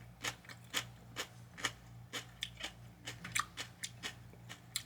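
Close-miked chewing of a crunchy toasted sandwich: a quick run of short crunches, about four or five a second.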